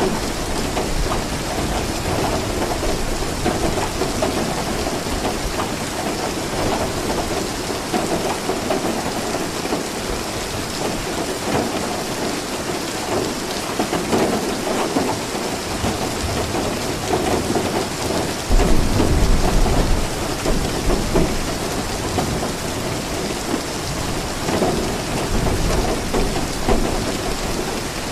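Steady heavy rain falling, with a low rumble of thunder rolling in about two-thirds of the way through.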